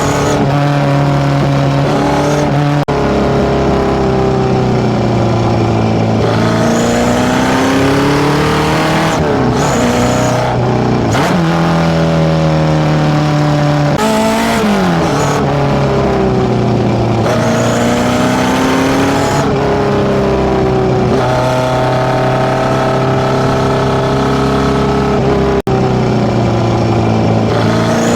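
Datsun B210's fully tuned A15 four-cylinder, breathing through FCR41 carburettors and a one-off 54 mm stainless exhaust, running and revving, its exhaust note rising and falling again and again. The sound cuts off abruptly for an instant twice, once a few seconds in and once near the end.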